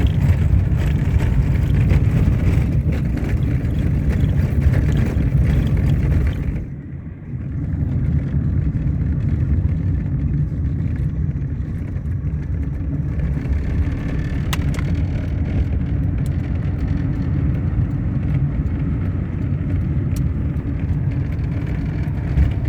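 A car driving on a dirt road: a steady low rumble of tyres and engine. It dips briefly about six and a half seconds in, then runs on more smoothly.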